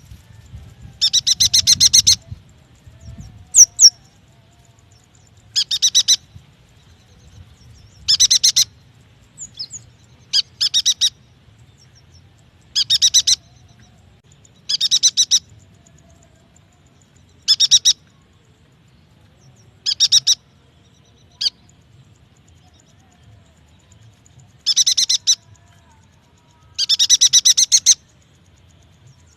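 A yuhina calling in short, fast chattering trills of high chirps, each burst under a second long and repeated about every two seconds.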